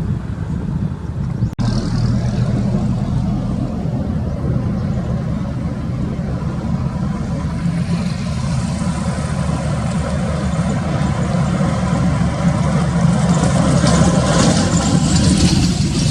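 Highway traffic dominated by the low, steady engine rumble of a heavy truck. A vehicle draws closer from about halfway through, its tyre and road noise loudest near the end before easing off.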